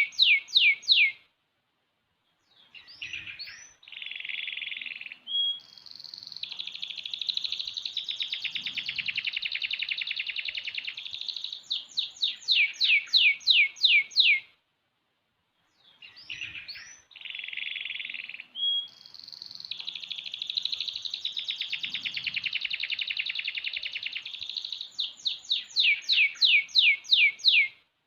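Young domestic canary, about six months old, singing long continuous song phrases of rolling trills and buzzy passages. Two phrases, separated by short pauses, each close with a fast run of downward-sweeping notes.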